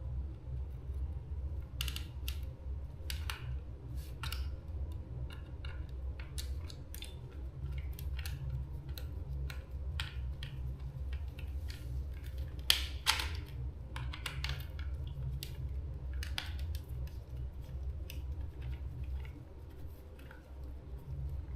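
Irregular small clicks and taps of parts being handled during a repair, over a steady low hum; one sharper click about thirteen seconds in is the loudest.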